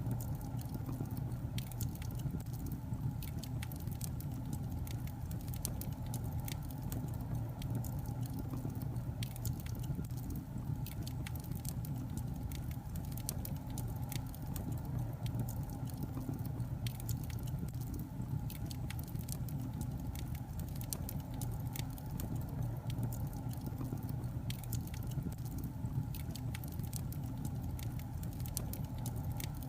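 Logs burning in a fireplace, crackling with frequent small sharp pops over a steady low rumble of the fire.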